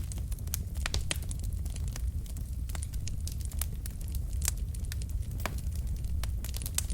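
Wood fire crackling: burning logs giving irregular sharp pops and snaps over a steady low rumble of the flames.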